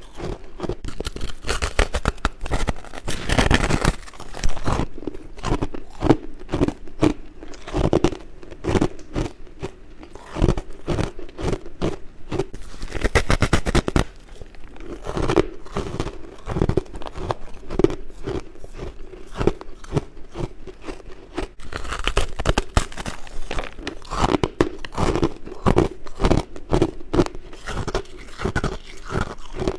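Close-up biting and chewing of white frost: continuous crisp crunching and crackling as the frost is bitten off and chewed, in a quick uneven rhythm.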